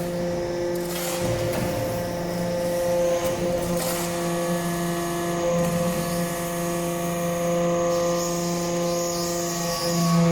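Hydraulic briquetting press for cast iron chips running, its pump and motor giving a steady, even-pitched hum, with a few faint clicks.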